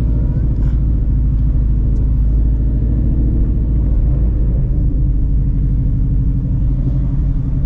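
2016 Ford Mustang Shelby GT350's 5.2-litre flat-plane-crank V8, straight-piped with long-tube headers, idling loudly and steadily.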